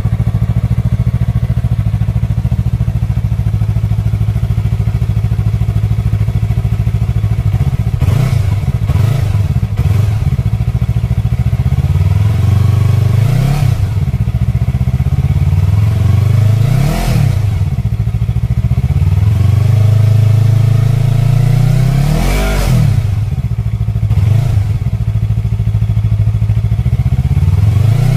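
Yamaha R3 parallel-twin motorcycle engine idling steadily for about eight seconds, then blipped repeatedly, the pitch rising and falling with each rev, through an aftermarket exhaust.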